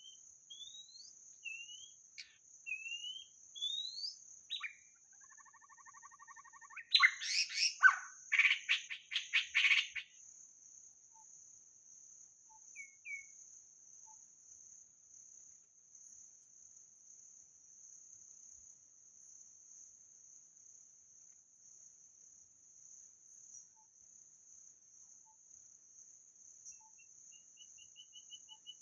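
White-rumped shama singing: a string of clear whistled notes, each sliding upward, then a loud rush of rapid, varied phrases from about seven to ten seconds in, followed by a few faint notes. A steady high insect trill runs underneath throughout.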